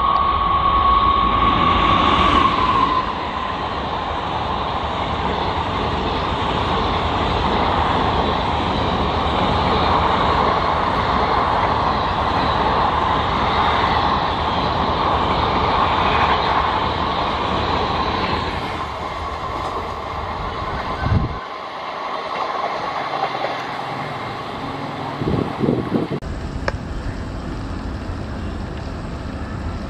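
An Indian Railways electric locomotive's horn sounds a steady high note for the first couple of seconds as the train comes up. Its coaches then run past with a steady rumble and wheel clickety-clack. About 21 seconds in the sound cuts to a quieter scene with another electric train approaching in the distance.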